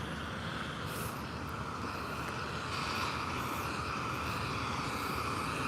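Steady noise of a distant motor vehicle, swelling slightly about halfway through.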